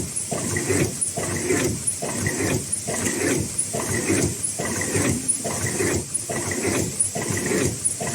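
High-speed automatic N95/FFP2 mask-making machine running, its mechanism cycling in a steady, even rhythm a little more than once a second, with a short high blip on each cycle.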